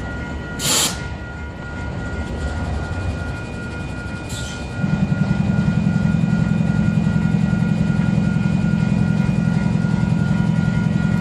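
A train's diesel locomotive comes up to a loud, steady low drone about five seconds in, after two short hisses. A level-crossing warning bell rings steadily over it.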